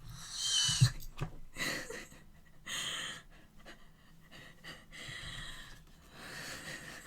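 Faint rustling and light clicks of packaging and album contents being handled, with soft breaths.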